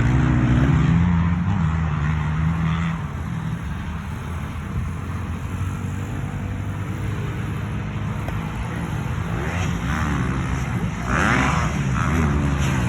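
Engine running steadily, its pitch rising and falling a few times near the end.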